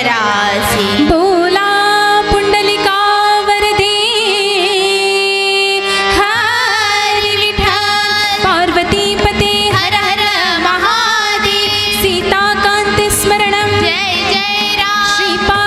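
Women's devotional bhajan singing, with wavering held vocal notes over steady sustained instrumental tones and occasional drum strokes.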